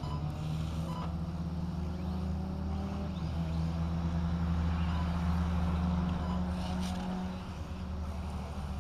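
Radio-controlled 1/8-scale cars racing, their small engines revving up and down in the distance over a steady low drone that swells in the middle.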